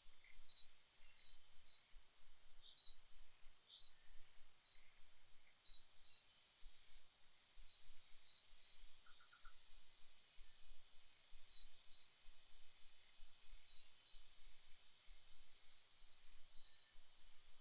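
Small birds chirping in short, high notes, often in quick pairs or threes, repeating irregularly over a steady high hiss of outdoor ambience.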